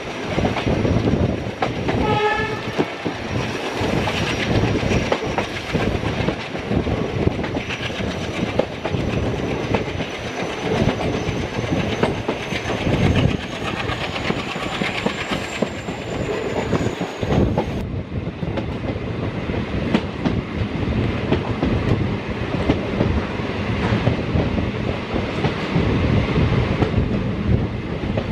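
Express train coaches running at speed, with a steady rumble and clatter of wheels over the rails. A short horn blast sounds about two seconds in.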